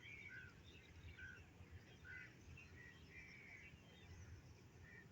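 Small birds chirping faintly in short, irregular calls, over a faint low rumble.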